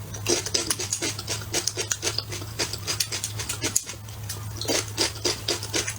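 Close-miked chewing and wet lip-smacking of a person eating braised pork ribs: a quick, irregular run of sharp mouth clicks, several a second, over a steady low hum.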